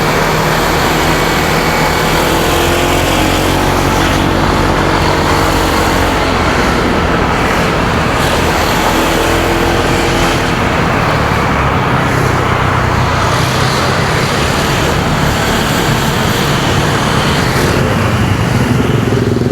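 Motorcycle engine running under way, its pitch rising and falling, mixed with wind rush on the microphone and the noise of passing road traffic.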